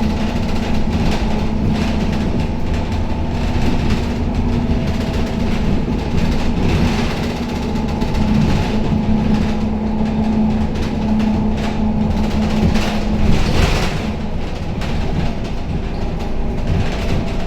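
Cabin noise inside a moving Scania K270UB city bus: the engine drones with a steady hum that fades about two-thirds of the way through, over a low road rumble and the frequent rattling of the body and fittings.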